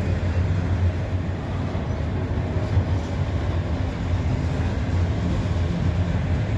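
Freight train cars rolling slowly past, a steady low rumble of steel wheels on the rails.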